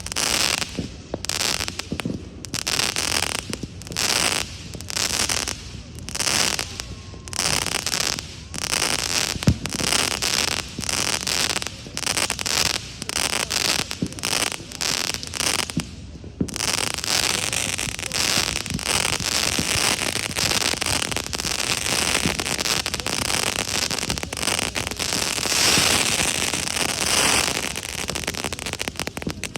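Fireworks crackling in quick repeated bursts, about two a second, which run together into one continuous dense crackle about halfway through.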